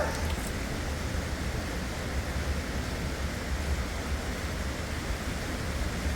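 Steady rushing of river water, an even noise with a low rumble underneath.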